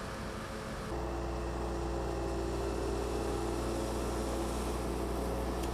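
Engine of road-works machinery running steadily, a low droning hum that gets louder after a cut about a second in.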